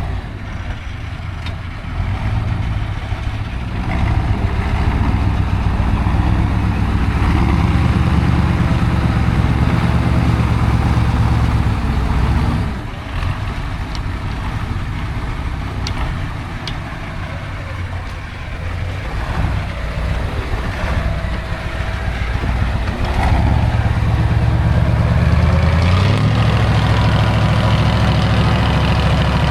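Heavy off-road trial truck's diesel engine working under load. It eases off a little before halfway, then builds again in the last third with a short rising rev.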